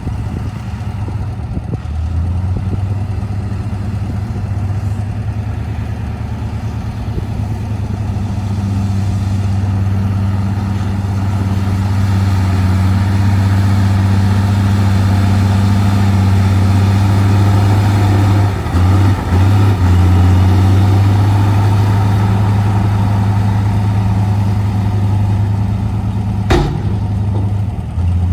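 Heavy diesel dump truck engine running steadily, getting louder over the first several seconds and holding there, with two brief dips about two-thirds of the way through and a single sharp knock near the end.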